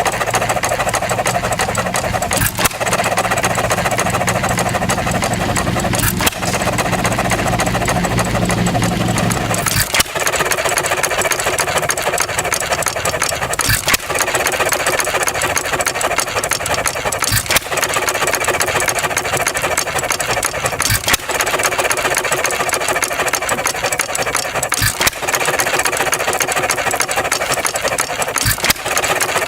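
1 1/2 hp Ideal hit-and-miss engine, air-cooled, running on its own. A sharp bang from a firing stroke comes about every three and a half seconds, with steady mechanical running noise between the firings. A low hum under the first part stops about ten seconds in.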